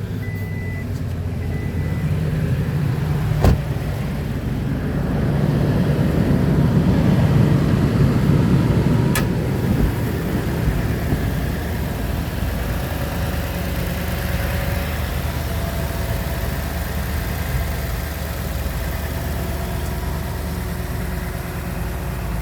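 2018 Toyota Tundra's V8 engine running just after start-up. It swells for a few seconds, then settles to a steady idle. A chime beeps for the first couple of seconds, and there are two sharp clicks.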